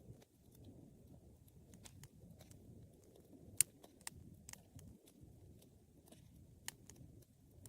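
Wood fire burning in a fireplace: a low steady rush of flames with scattered sharp crackles and pops, the loudest a little past halfway and another near the end.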